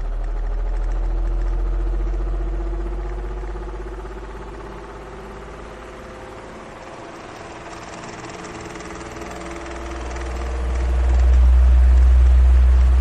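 Electric fan running: a low rumble with a steady motor hum over a whooshing air noise. It swells and fades, loudest a second or two in and again near the end.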